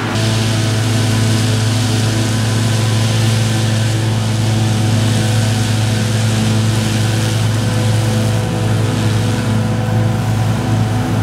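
Heavy diesel engine of large farm machinery running steadily at constant speed, with a strong low hum and a hissing rush over it.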